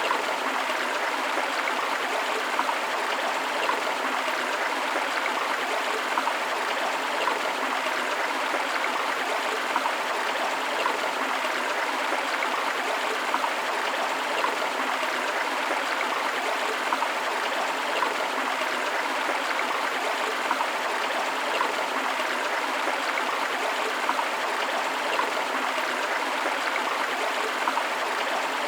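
River water flowing: a steady rush with small splashes and babbling throughout.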